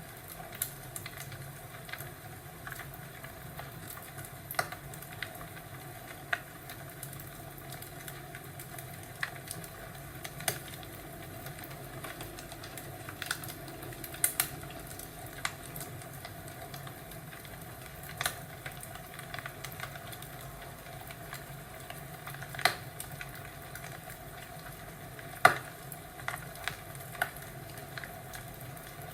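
Wood fire crackling in a fireplace: a steady low rumble and hiss with irregular sharp pops every second or two, the loudest about 25 seconds in.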